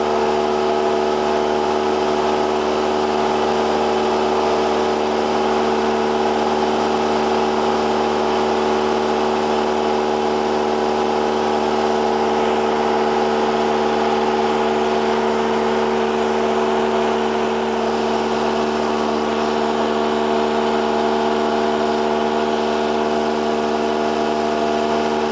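Cessna 172R's four-cylinder Lycoming engine and propeller droning steadily in flight at constant power, with no change in pitch.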